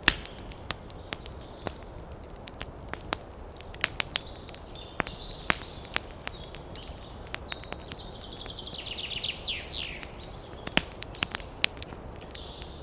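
Campfire crackling with frequent sharp pops over a steady low hiss. Small birds chirp throughout, with a quick run of downward-sweeping notes a little past the middle.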